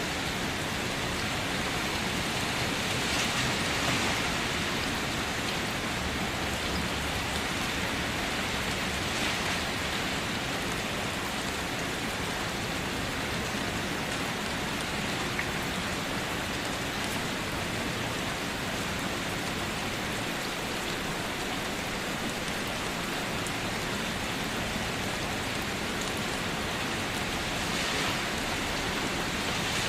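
Steady rain falling on surfaces, an even hiss with a few drops standing out, without thunder.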